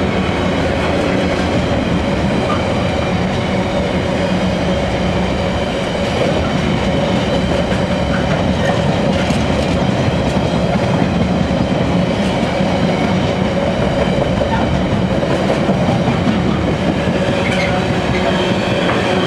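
Container freight train's wagons rolling past, a steady rumble with occasional wheel clicks over the rail joints and a couple of faint wheel squeals.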